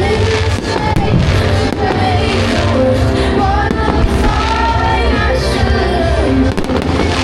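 Pop music with a sung melody and a steady bass line playing over a fireworks display, with a few firework bangs cutting through: one about four seconds in and a cluster near the end.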